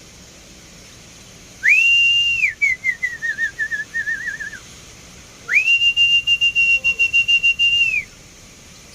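A person whistling: one held high note, then a wavering trill that slowly falls in pitch, then a second, longer held high note. Each note slides up at the start and drops off at the end.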